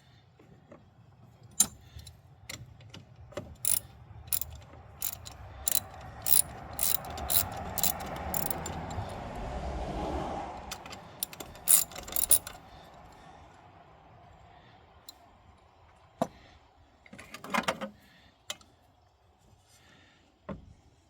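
Hand tools working on a van's heater blower motor: a run of sharp metal clicks and rattles over the first half, with a rubbing noise that swells and fades in the middle, then a few scattered knocks.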